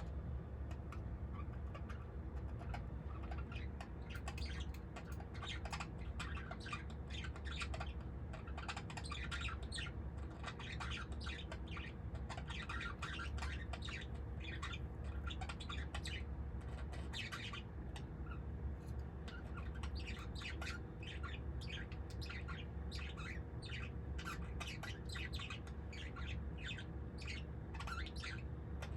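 A small group of birds chirping and squawking, with many short overlapping calls, over a steady low hum.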